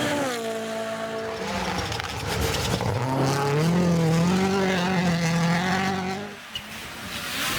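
Rally car's turbocharged four-cylinder engine at speed on a stage. The engine note drops as the driver comes off the throttle, then climbs again under acceleration and holds high before stopping about six seconds in.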